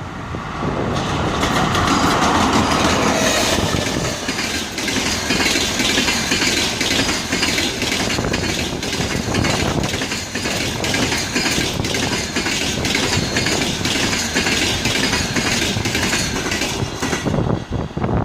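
A ChS7 electric locomotive and its passenger cars passing at speed, with rapid clickety-clack of wheels over rail joints. A whine falls in pitch as the locomotive goes by in the first few seconds. The clatter eases off near the end as the last cars pass.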